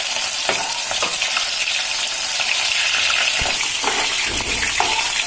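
Mushroom pieces half-frying in hot mustard oil in a kadai: a steady sizzle. A few short clinks as a perforated steel spoon stirs them against the metal pan.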